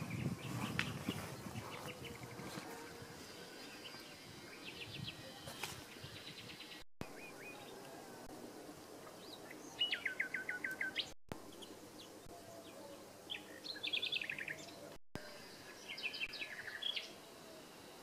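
Wild songbirds singing outdoors: several short runs of quick, repeated chirps, the loudest about ten seconds in, over faint steady background noise, with a low rumble in the first couple of seconds.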